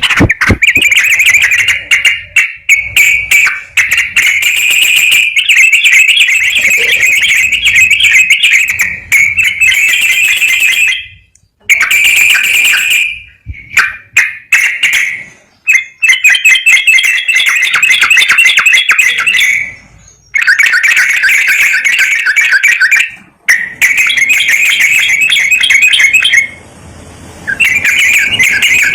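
Loud songbird song: rapid trilled phrases a few seconds long, repeated with short pauses between them. This is a lure song track played to coax a sooty-headed bulbul into singing.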